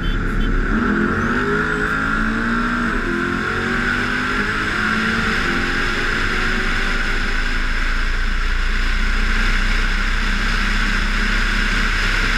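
A high-performance vehicle engine under hard acceleration in a roll race, its pitch climbing several times over the first half, over a steady rushing noise.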